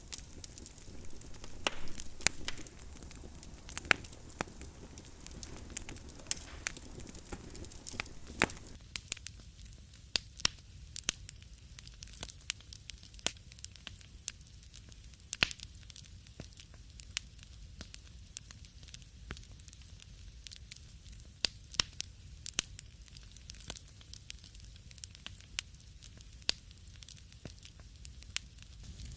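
Wood fire crackling in a fireplace, with frequent irregular sharp pops. About nine seconds in, the soft rushing underneath drops away, and the crackles go on over a quieter background.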